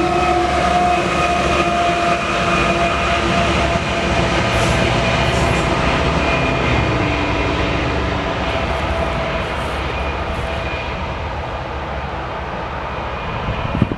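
A westbound BNSF double-stack freight train's wheels rolling on the rails as the end of the train goes by and draws away. The sound is a steady rumble with thin, steady high tones, getting slowly quieter.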